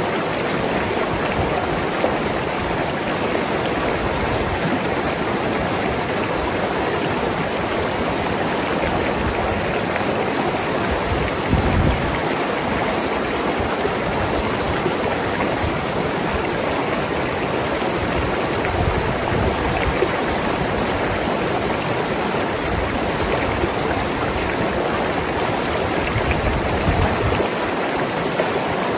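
Mountain river rushing and gurgling over rocks, a steady flow of water with a few brief, heavier low surges.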